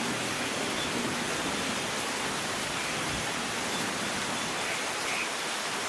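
Steady rain falling, an even hiss with no thunder clap.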